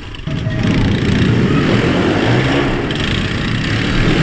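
Pit bike engine running hard, loud and steady after a rise in level about a third of a second in.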